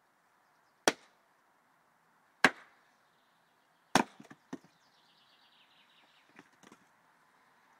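An axe chopping into a tree trunk: three sharp blows about a second and a half apart, followed by a few lighter knocks.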